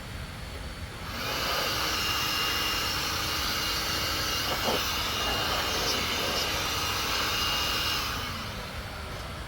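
A steady, loud hissing rush with a faint high whine in it, like a blast of air from a machine. It starts about a second in and fades out near the end.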